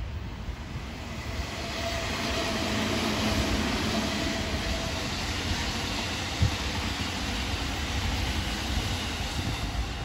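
Electric commuter trains, a Meitetsu 6500 series and a JR 313 series, running past on parallel tracks. The rolling rumble builds over the first couple of seconds and then stays steady, with one sharp clack about six seconds in.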